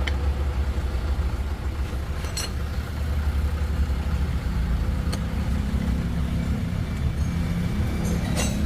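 Vehicle engine idling steadily, a low hum with a few light metallic clicks.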